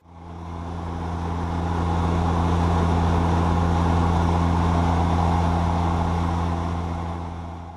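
Steady in-flight drone of a DHC-6 Twin Otter's two Pratt & Whitney PT6A turboprop engines and propellers heard in the cockpit, a deep steady hum over a wide rushing noise, fading in at the start and fading out near the end.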